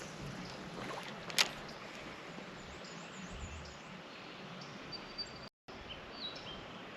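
Outdoor creek ambience: a steady hiss with faint high chirps of birds, and one sharp click about a second and a half in. The sound drops out completely for an instant near the end.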